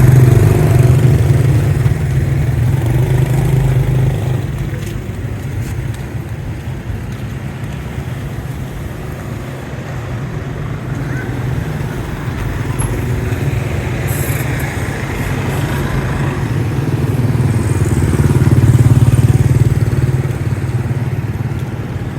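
Road traffic: vehicle engines running and passing. It is loudest at the start and again near the end, and quieter in between.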